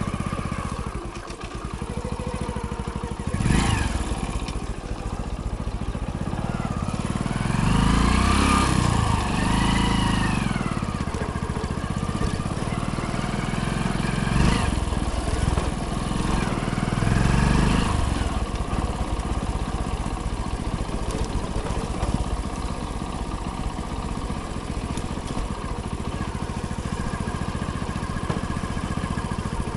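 Hero Splendor motorcycle's single-cylinder four-stroke engine running on the move, the revs rising and falling a few times about a quarter of the way in and again just past the middle. A couple of short knocks are heard, one a few seconds in and one about halfway.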